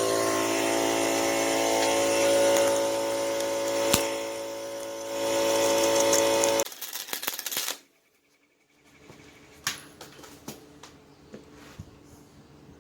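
Dremel rotary tool running at high speed and grinding the inside of a cracked cast-iron exhaust manifold, cleaning it up for welding. It makes a steady whine with a grinding hiss, eases off briefly about five seconds in, and stops about seven seconds in. Afterwards there are only faint clicks and handling noises.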